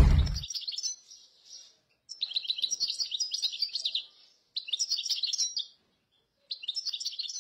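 Small birds chirping in quick, high-pitched twittering phrases: four bursts of rapid notes separated by short silences.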